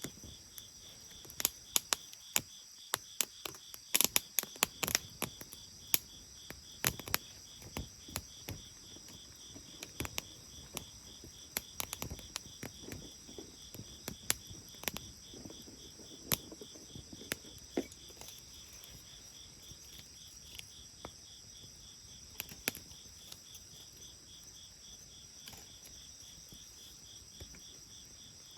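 Wood fire crackling with sharp, irregular pops, thickest in the first half, over crickets chirping steadily in a rapid pulsing trill.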